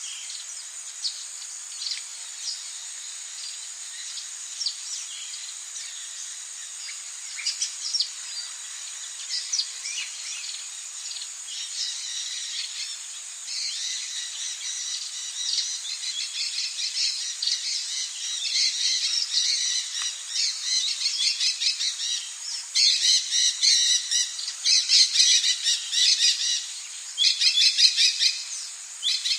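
Rainforest ambience: many birds chirping and calling over a steady high-pitched insect drone. The bird calls grow busier and louder about halfway through and are loudest near the end.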